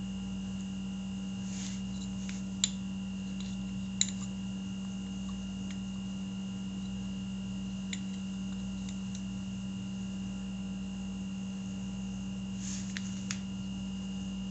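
Light metallic clicks and taps of hand tools and brake parts being handled, a few separate clicks over a steady hum.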